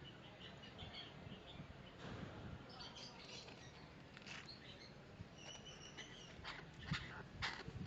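Chinese francolin calling: a run of harsh, scratchy notes about two a second that starts late and grows louder, with faint high chirps of small birds before it.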